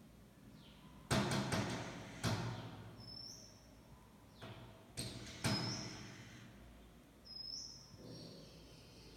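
A bird pecking and knocking on window glass: sharp knocks in short bursts about a second in, at two seconds and around five seconds, with short high chirps between them.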